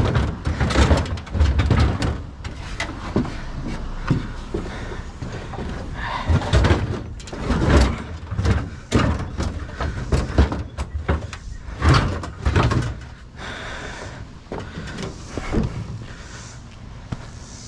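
Metal scrap being shifted and loaded onto a truck: repeated clanks, knocks and scraping as a heavy piece is wrestled into place, with the busiest banging in the first half and quieter handling near the end.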